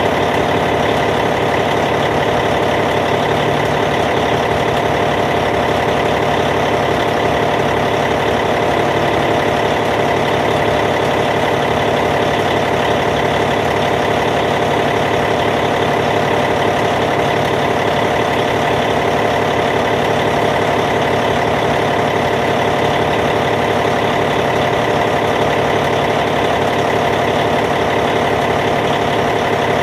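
Caterpillar C15 diesel engine of a Cat D8T bulldozer idling steadily.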